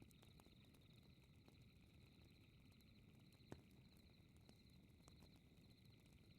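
Faint fireplace ambience: a wood fire crackling with scattered small pops and one sharper pop about halfway through, over a low rumble and a steady high chirring of night insects.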